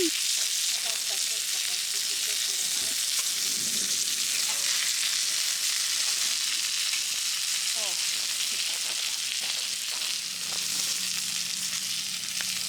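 Hamburger patties frying in oil on an iron griddle over a wood fire, a steady sizzling hiss. The fire is burning so high that the cook cannot turn the patties.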